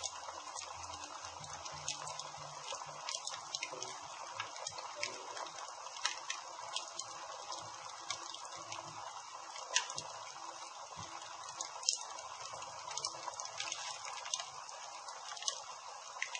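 Campfire burning: a steady hiss with irregular crackles and pops, a few louder than the rest.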